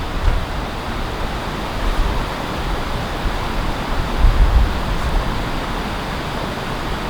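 Steady rush of a mountain stream, with low gusts of wind buffeting the microphone a few times.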